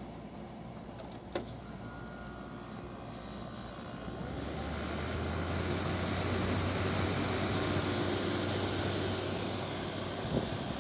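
GE (Midea) 5,000 BTU window air conditioner starting up: a click about a second in, then about four seconds in its running sound swells into a steady low hum with rushing air, and it keeps running.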